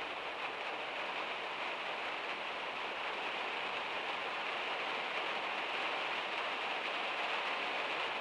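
Heavy rain drumming steadily on the metal roof of a van, a dense, even patter.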